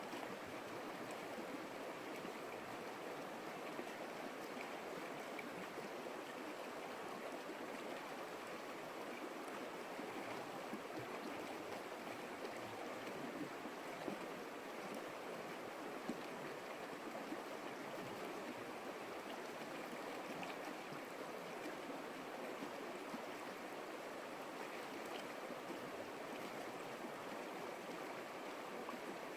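Creek water flowing steadily: an even, continuous rushing with no pauses.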